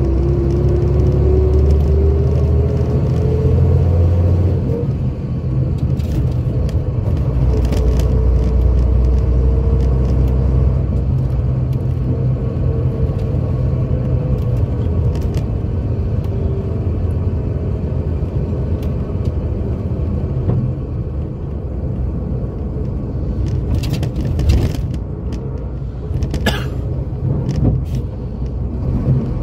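Scania K82SR coach's diesel engine pulling under load, its note rising for about four seconds, then a gear change and a steadier, slowly varying run with heavy low rumble. A few clicks and a short squeak come near the end.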